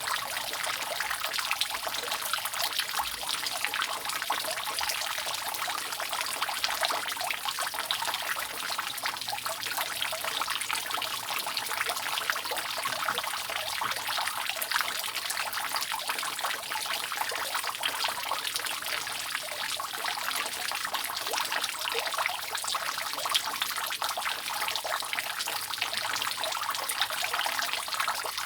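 Rainwater dripping and trickling steadily off a roof: a dense, even patter of many small drips.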